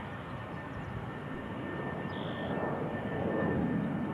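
Jet airliner engine noise: a steady rush that swells slightly in the second half.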